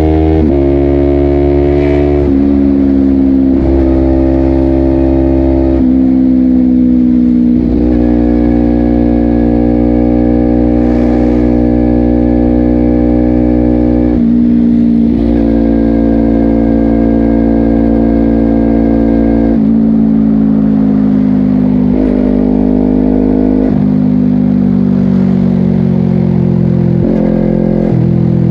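2022 Honda CBR250RR SP's parallel-twin engine through a Yoshimura exhaust, heard from the rider's seat on the move. It runs at fairly steady revs, its pitch breaking and jumping to a new level about a dozen times as the gears change.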